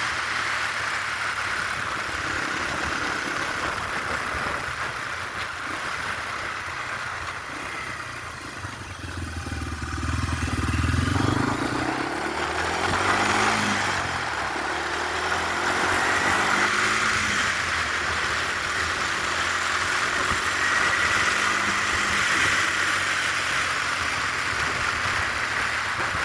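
Yamaha TW200's single-cylinder four-stroke engine running while riding under a steady rush of wind noise. The engine pitch dips and then climbs again around the middle.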